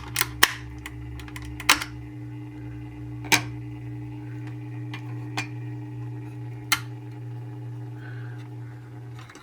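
Steady low hum of a small motorized display turntable, with a few sharp clicks and taps from handling a die-cast model car as its hood is lifted off, three in quick succession at the start and then single ones every second or two.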